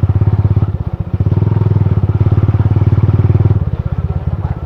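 Motorcycle engine running under throttle with an even beat of firing pulses, easing off briefly about a second in and dropping back again near the end.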